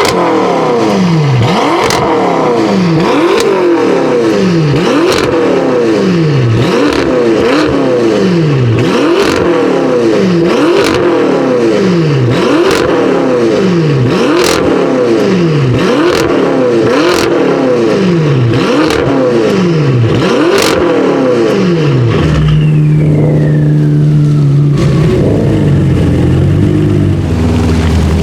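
BMW M5 F10's twin-turbo V8 being blipped hard and repeatedly through an Akrapovic exhaust, about one rev a second, with sharp cracks at many of the rev peaks. About 22 s in the blipping stops and the engine settles to a steady note with a high falling whistle, then starts to rise again at the end.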